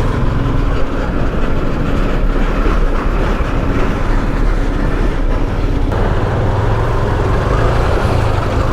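Motorcycle engine running under way, with steady wind rush over the rider's microphone; the engine note gets stronger about six seconds in.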